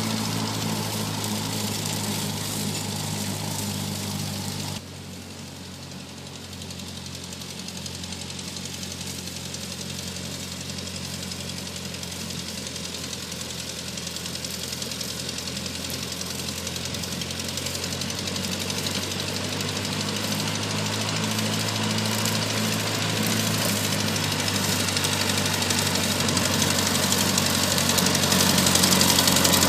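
Tractor engine running steadily. The level drops suddenly about five seconds in, then grows steadily louder toward the end.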